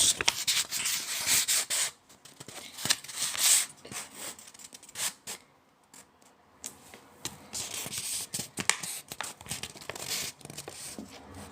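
A sheet of A4 paper being folded and creased by hand, with crinkling, rubbing and sharp crackles as the corners are pressed down, in two spells with a short quiet gap about halfway through.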